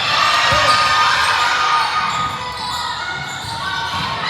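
Spectators' indistinct chatter and calls, echoing in a large hall during a game.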